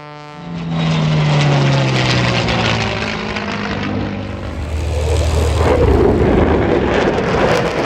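Propeller airplane flying past, its engine drone dropping in pitch as it goes by, then swelling louder and lower in the second half.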